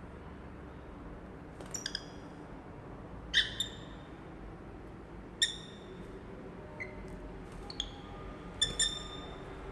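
Lovebirds giving short, high chirps every second or so, some in quick runs of two or three.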